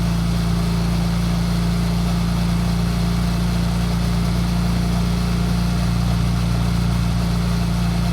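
BMW F800GS Adventure's parallel-twin engine running at a steady, unchanging speed while riding, with an even hiss of wind and road noise over it.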